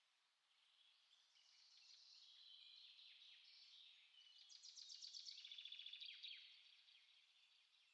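Small songbirds singing quietly, with overlapping chirps and short whistled phrases. A rapid high trill of fast repeated notes comes in the middle and is the loudest part.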